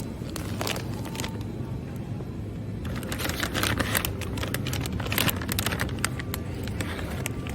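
A steady low hum with a cluster of sharp clicks and crackles from about three to six seconds in.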